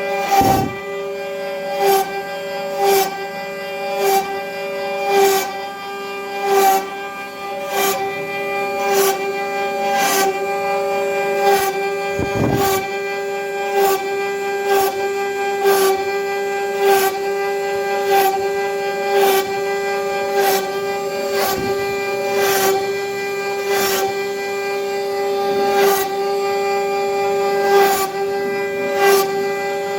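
CNC router spindle carving wood, a steady high whine with a short surge of cutting noise at each pass, somewhat more than once a second.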